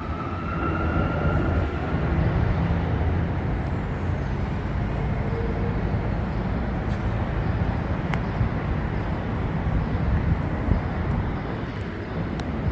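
Steady road traffic noise with a low rumble of passing vehicles. A thin high tone sounds for the first second or two, and a few faint clicks come later.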